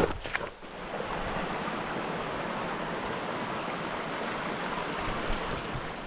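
Running water with a steady, even rushing hiss, like a stream flowing.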